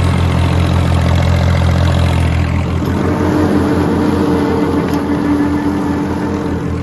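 Small diesel engine of a Kubota L1802 compact tractor running at a steady idle with an even low throb. A higher steady whine joins it from about three seconds in until near the end.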